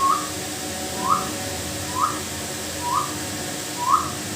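A series of five short, rising whistled notes, evenly spaced at about one a second.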